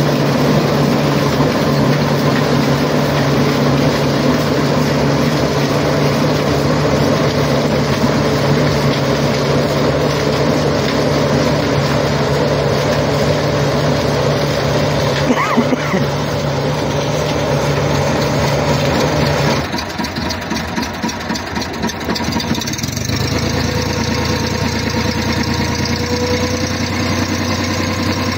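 A Massey Ferguson 253 tractor's diesel engine runs steadily together with the SIP Tornado 80 harvesting machinery. About twenty seconds in, the sound drops and pulses unevenly for a few seconds, then settles into a lower, steady engine note like idling.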